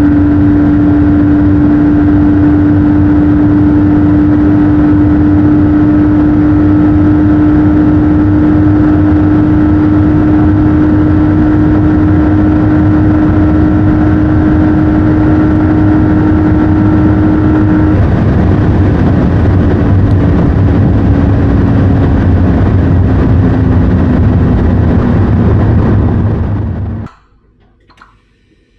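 Porsche 911 Carrera's 3.0-litre turbocharged flat-six pulling hard in a high gear at very high speed, a loud steady drone over wind and tyre noise. About two-thirds of the way in, the pitch starts to sink slowly as the car eases off from its top speed. Near the end the sound cuts off.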